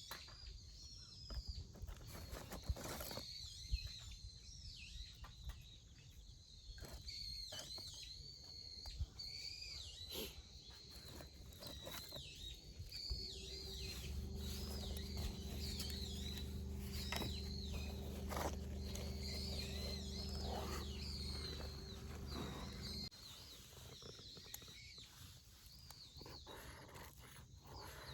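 Birds calling steadily in the background, with scattered knocks and clicks. A steady low hum joins about halfway through, runs for some ten seconds and cuts off suddenly.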